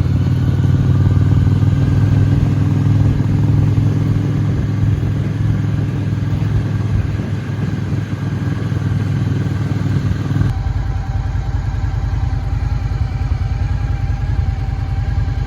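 Motorcycle engine running steadily while riding. About ten seconds in, the sound changes suddenly to a lower, evenly pulsing engine note.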